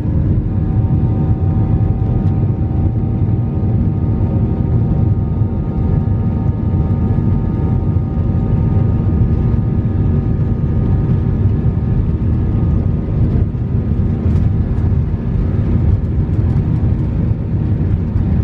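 Airbus A320 cabin noise with the engines running: a steady low rumble with faint steady tones on top, heard from inside the cabin while the aircraft is on the ground after pushback.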